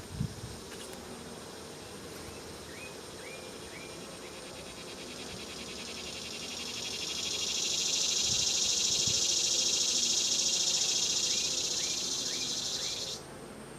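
A high, rapidly pulsing insect buzz swells in about halfway through and cuts off abruptly near the end, over a faint steady hum of honeybees around the open hive. A few faint short chirps come in between.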